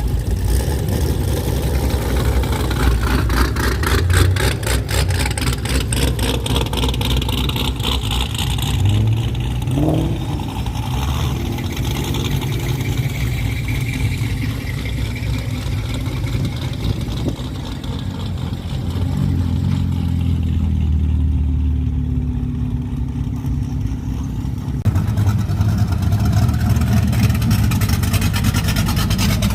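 Car engines running, with an engine revving up about ten seconds in.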